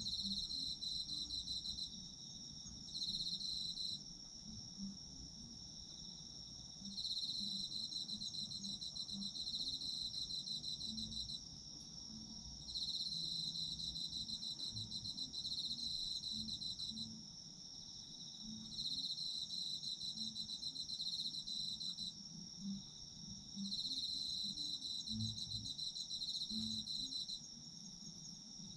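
Chorus of autumn insects such as crickets singing at night. One high, steady trill runs unbroken, while another rapid, pulsing chirp comes in bouts of a few seconds with short pauses between them.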